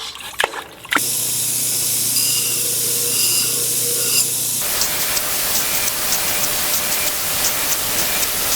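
Steady loud hissing noise with a low hum under it. About four and a half seconds in it changes to a fuller hiss with faint rapid ticking.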